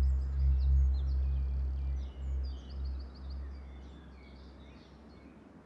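Birds chirping in quick runs of short high notes, over a low steady drone that fades out about three to four seconds in.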